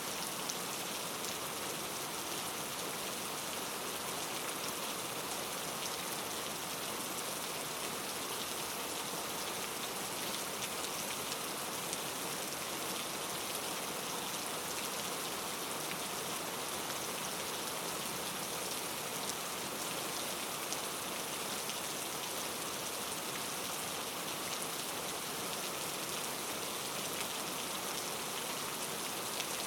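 Steady rain falling, a constant hiss with fine patter of drops, unchanging throughout.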